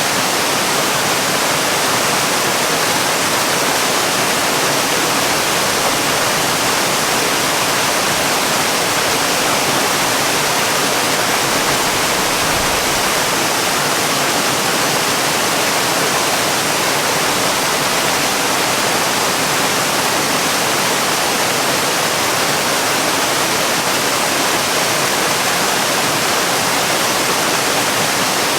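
Waterfall: a steady, unbroken rush of falling water, an even hiss with no breaks or changes.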